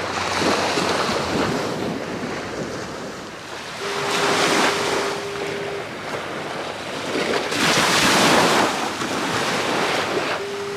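Ocean surf breaking and washing up the shore in three surges, each swelling and fading over a second or two, with wind gusting on the microphone.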